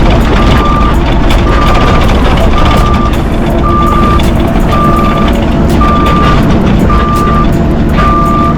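Heavy equipment's backup alarm beeping steadily about once a second, eight beeps in all, over the loud steady rumble of a diesel machine running.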